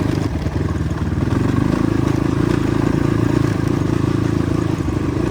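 Motorcycle engine running steadily under load on a rough off-road track, with some clatter.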